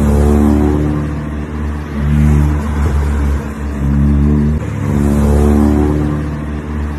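Car engine accelerating hard, its pitch climbing and then dropping back every second or two, as if shifting up through the gears.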